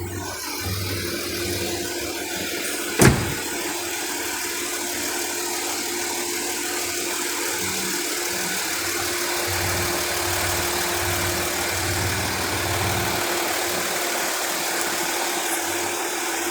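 Land Rover Discovery 3's 2.7-litre V6 turbo diesel engine idling steadily, with a single sharp knock about three seconds in.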